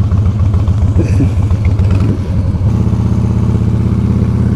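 Harley-Davidson Fat Boy's V-twin engine running, growing louder and more even about two-thirds of the way in.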